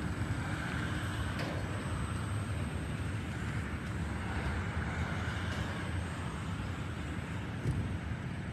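Freight train of covered hopper cars rolling slowly on the rails, a steady low rumble.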